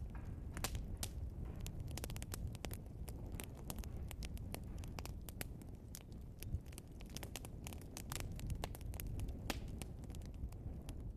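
Log fire burning with frequent sharp crackles and pops over a steady low rumble of the flames.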